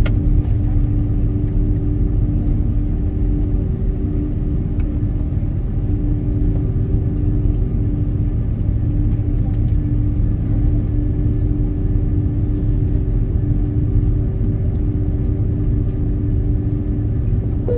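Airliner cabin noise before takeoff: the aircraft's engines running with a steady low rumble and an even hum.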